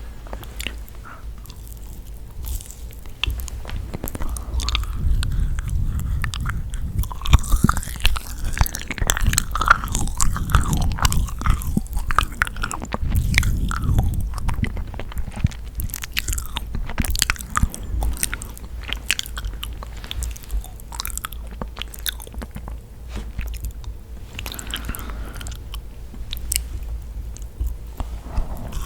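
Close-miked biting and chewing of yakgwa, the dense, sticky honey-fried Korean cookie, with wet mouth clicks and smacks. The chewing is busiest in the first half and lighter later on.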